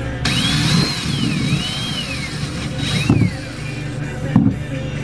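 Cordless drill or driver running in short trigger pulls, its motor whine rising and falling in pitch, with a few sharp knocks later on.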